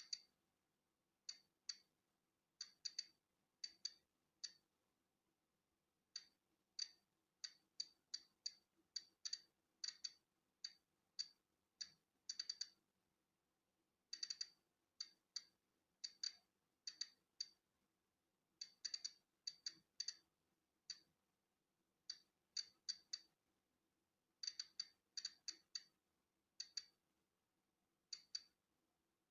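Polon EKO-C digital Geiger counter clicking at random, irregular intervals, now single clicks, now quick clusters, as it counts natural background radiation.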